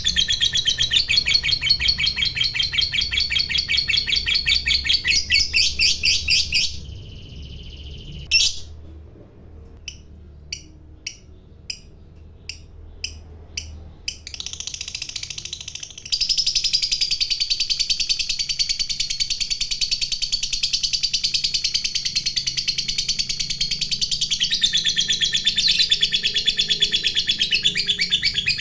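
Lovebird singing its long, rapid chattering trill ('ngekek panjang'). The trill breaks off after about seven seconds, leaving one sharp chirp and a few single short chirps, then starts again at about sixteen seconds and runs on unbroken.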